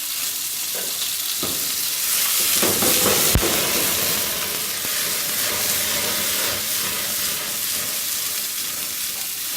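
Boiled green peas frying in hot oil in a frying pan, a steady sizzle that swells for a second or two. A single sharp click comes about three and a half seconds in.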